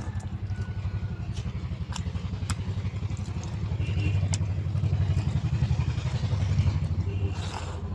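Eating sounds, with scattered sharp crisp clicks and crunches, over a steady low pulsing rumble.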